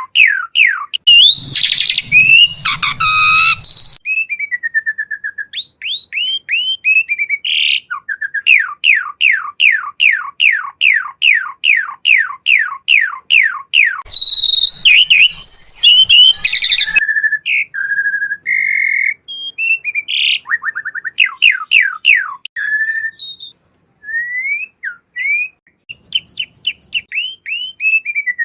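Asian pied starling (jalak suren) singing a long, varied song: harsh chattering phrases alternating with rapid runs of clear downward-sliding whistles, about four a second.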